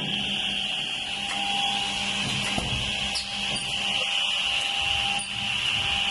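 Automatic edge banding machine running: a steady high-pitched whine with a steady lower hum beneath it and a few faint clicks.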